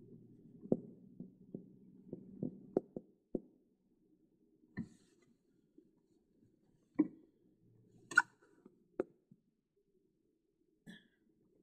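Irregular faint knocks and clicks with brief scrapes, close to the microphone, like a recording device being handled; a dense run in the first few seconds, then a few isolated knocks. No engine is running.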